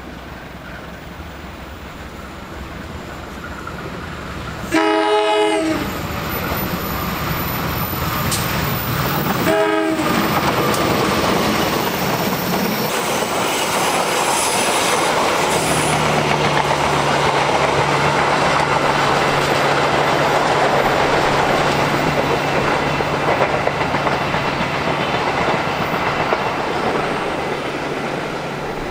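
CC201 diesel locomotive hauling a passenger train: its horn sounds once for about a second, then a shorter second blast a few seconds later. After that comes the steady running noise of the locomotive and the coaches' wheels clicking over the rail joints as the train passes.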